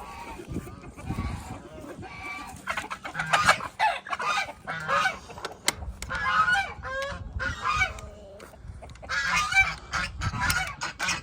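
Farm birds calling in bouts of short, repeated pitched calls, with a quieter stretch near the middle.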